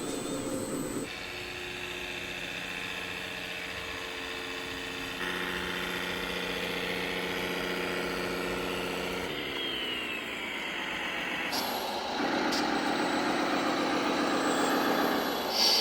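Simulated diesel engine sound from radio-controlled model trucks and tractors' sound modules, running steadily. The engine note changes abruptly three times and falls in pitch about ten seconds in.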